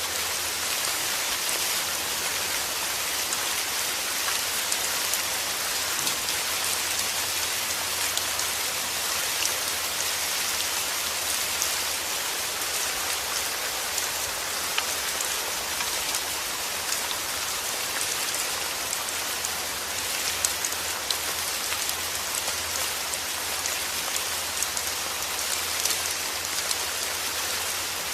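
Steady heavy rain: a dense, even hiss of drops with scattered individual drop ticks.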